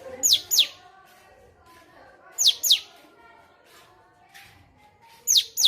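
Cucak cungkok calling: three pairs of sharp, steeply falling whistled notes, the pairs about two seconds apart.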